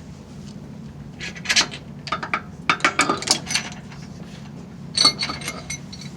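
Small metal tools and engine parts clinking and rattling in several short bursts, some with a brief metallic ring, over a steady low hum.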